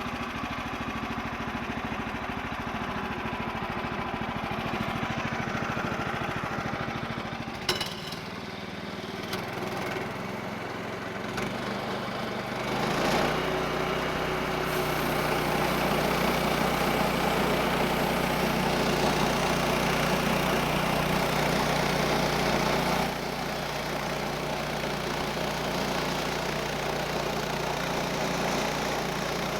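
The HM130 sawmill's 14 HP Kohler engine idles, then about halfway through the throttle is opened and it rises to cutting speed, engaging the centrifugal clutch to drive the band blade through the log; the engine then runs steadily under load, dropping back a little in level near the end.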